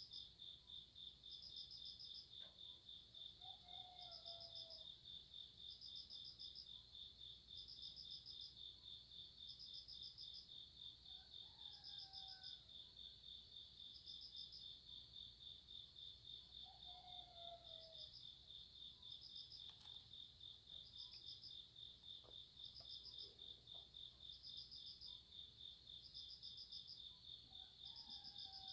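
Faint night chorus of crickets: a continuous high trill, with another insect's pulsed chirps repeating every one and a half to two seconds. A few short falling calls sound lower down, three times.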